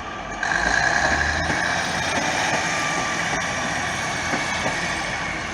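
Northern class 153 diesel railcar running close by, its engine noise rising sharply about half a second in and then holding steady.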